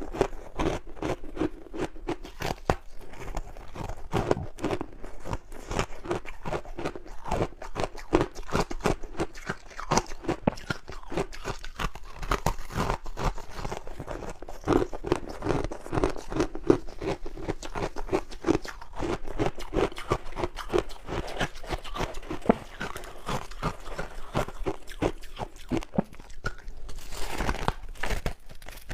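Close-miked chewing of crunchy ice: rapid, irregular crunches and cracks as the ice is bitten and ground between the teeth.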